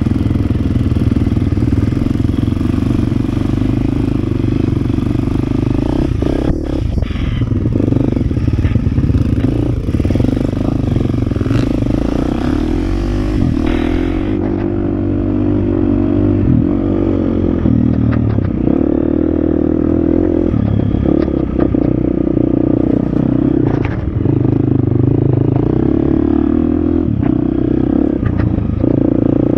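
Husqvarna FX 350 dirt bike's single-cylinder four-stroke engine running and revving, its pitch rising and falling with the throttle, with occasional knocks and clatter from the bike over rough ground.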